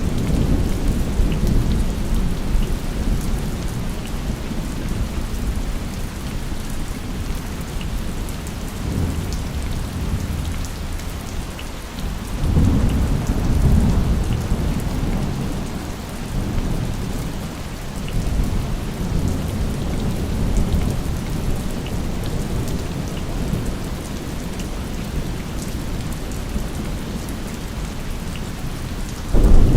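Heavy rainfall with thunder rumbling, the deep rumble swelling loudest about halfway through and again just before the end, where a louder thunderclap begins suddenly.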